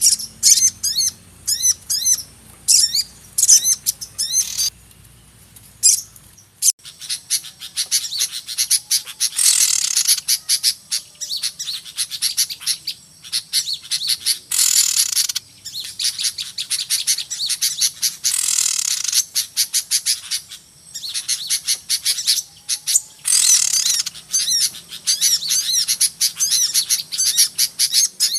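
A noisy chorus of many small birds, played as a bird-trapping lure call: rapid high chirps and trills without a break, with a harsher rasping call standing out roughly every four or five seconds.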